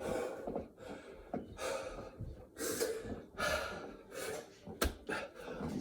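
A man gasping hard for breath mid-workout, heavy breaths in and out about once a second, with one sharp knock near the end.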